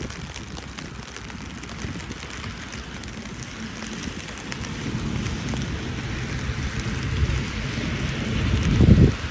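Steady rain hiss, with a low rumble under it that grows louder through the second half and is loudest just before the end.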